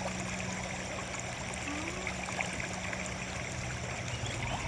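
A river running steadily, a continuous rush of flowing water, with a faint low hum that fades out near the end.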